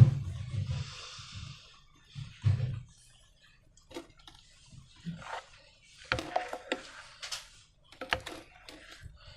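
Slime and transparent balloons being handled: a sharp knock at the start, a thud about two and a half seconds in, then scattered small sticky clicks and crackles.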